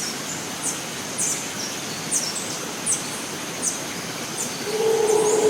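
Rainforest ambience: a steady hiss with a thin high tone, and short, high, falling chirps repeating about every 0.7 seconds. Near the end a low, steady hum comes in and becomes the loudest sound.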